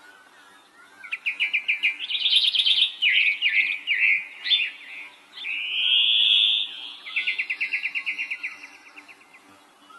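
A songbird singing: fast trilled phrases and short sweeping notes, a long rasping note around the middle, then another fast even trill that ends about nine seconds in.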